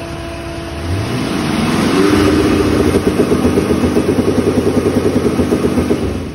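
Fuel-injected V8 on an engine run stand revving up, then held against its electronic rev limiter, so the exhaust note stutters rapidly and evenly as the limiter cuts in and out. The revs drop back near the end.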